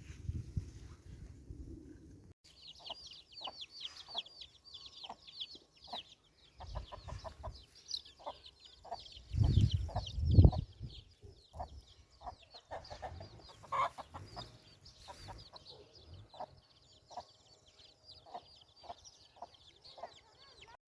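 Birds, probably fowl, calling: a dense run of rapid high chirps starts a couple of seconds in and keeps going, with scattered short clucks, and a couple of loud low thumps near the middle.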